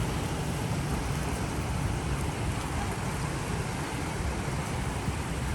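Steady rushing wind noise with a heavy low rumble, the kind made by wind buffeting the microphone on a moving boat.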